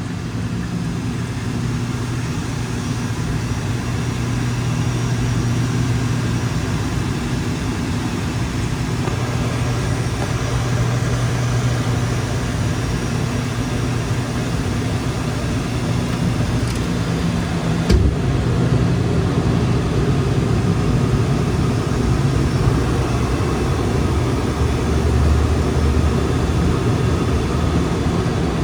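ATR 72-600 turboprop engines and propellers droning steadily with a strong low hum and rushing air. A single sharp thump about two-thirds of the way through, after which the sound is a little louder.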